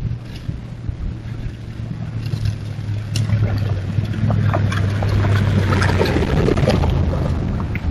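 A vehicle driving along a logging road past the camera, its low engine hum growing louder and loudest about six to seven seconds in, with scattered crackles from the tyres on the road surface.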